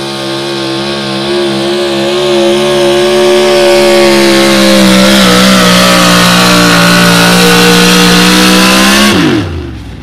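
Modified four-wheel-drive pulling truck's engine held at full throttle and high revs, growing louder over the first few seconds, then cut off about nine seconds in with the pitch falling away at the end of the pull.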